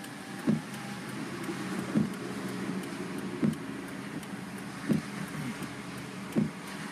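Car windshield wipers sweeping at an even pace, a soft thump about every second and a half, over the steady hum inside the car.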